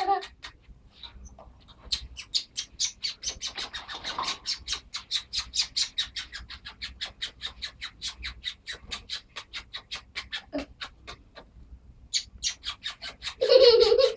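Small pet bird chirping harshly and fast, about five short calls a second, in a long unbroken run that pauses briefly near the end.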